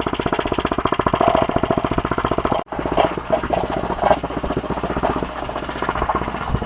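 A mini bike's small single-cylinder engine running with a rapid, even firing beat. It cuts out for an instant about two and a half seconds in, then picks straight back up.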